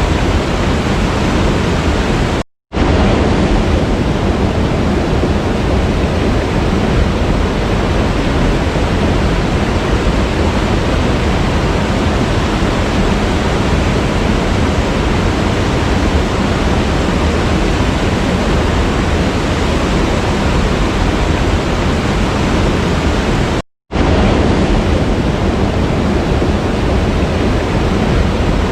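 Waterfall, a steady rushing of falling water that cuts out to silence for a split second twice, about two and a half seconds in and again near the end.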